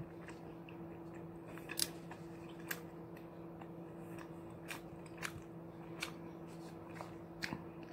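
Close-miked mouth sounds of someone eating a quesadilla: chewing with scattered sharp, wet clicks and smacks. A steady low hum runs underneath.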